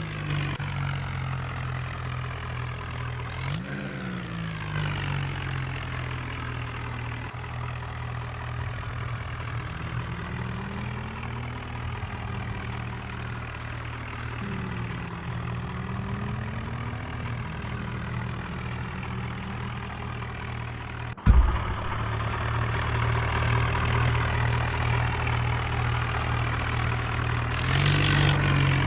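New Holland tractor's diesel engine running steadily while hauling two loaded trailers, its note rising and falling gently a few times in the middle. A sharp thump about two-thirds of the way through, after which the engine sounds louder.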